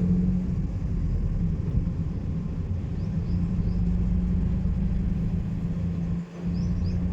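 Car driving along: a steady low rumble of engine and road noise with a constant hum, dipping briefly just after six seconds.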